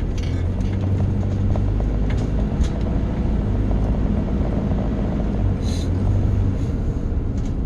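A steady low mechanical rumble, like a running engine, with a few light clicks and a short hiss about six seconds in.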